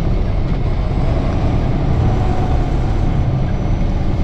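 Semi-truck's diesel engine running steadily with road noise, heard from inside the cab while the truck rolls slowly.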